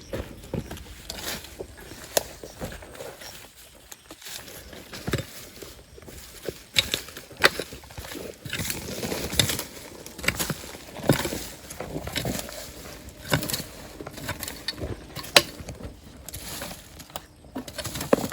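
Stones and gravel clacking and scraping as they are dug through and handled, in irregular sharp knocks.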